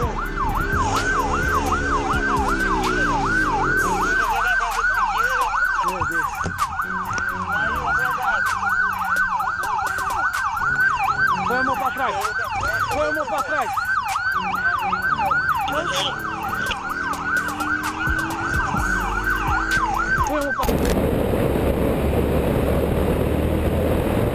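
Police car siren in a fast yelp, its pitch sweeping up and down about two and a half times a second, with some lower engine or voice sounds under it. It cuts off suddenly near the end, giving way to a steady rushing noise.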